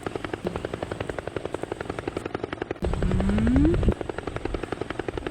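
Helicopter rotor beating in a rapid, even rhythm, with a rising whine and a deep rumble for about a second midway.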